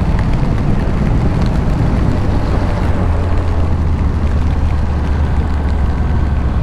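2001 Yamaha FZS1000 Fazer's inline-four engine running at a steady note under way, with wind rushing over the microphone.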